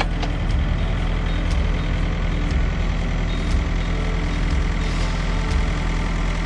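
Heavy diesel truck engine running steadily with a low, even hum.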